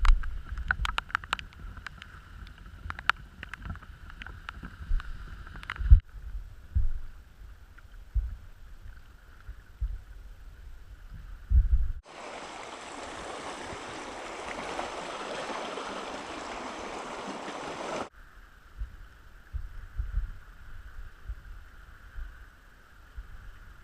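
Outdoor sound on a canoe trip, with abrupt changes every six seconds. Wind buffets the microphone with irregular low thumps and a few sharp clicks. In the middle comes a six-second stretch of steady rushing water.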